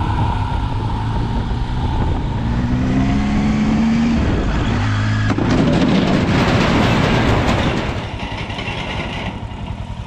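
Triumph Tiger 800 three-cylinder motorcycle engine running under way, its pitch rising as it accelerates a couple of seconds in. Partway through, a loud rush of noise swells over it for a few seconds, then eases to a steadier hiss.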